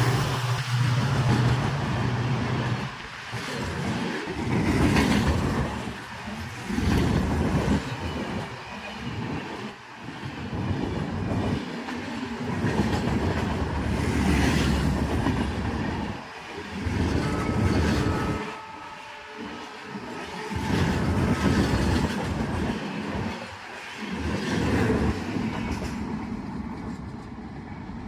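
Express train passing at speed: the low drone of its WDP-4D diesel locomotive trails off in the first few seconds, then the coaches rush by with their wheels clattering over the rail joints, the sound swelling and dipping about every two seconds as each coach goes past.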